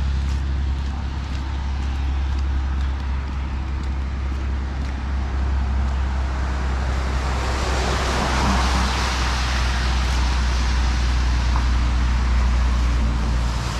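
Road traffic on a wet street: a car passes with a swelling hiss of tyres on wet pavement, loudest about eight to eleven seconds in, over a steady low rumble of wind on the microphone.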